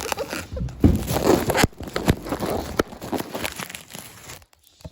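Takeout food packaging being handled and opened: crinkling and crackling rustle with sharp clicks. It is loudest about a second in and fades toward the end.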